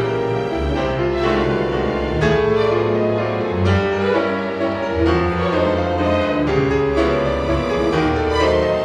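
Piano and chamber string orchestra playing classical music together, with held low string notes under chords and piano strikes.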